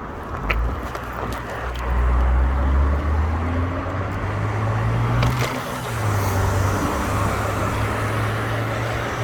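Street traffic: a motor vehicle's engine running close by with a low hum that shifts in pitch, over a steady rush of road and wind noise, with a few light knocks about half a second and five seconds in.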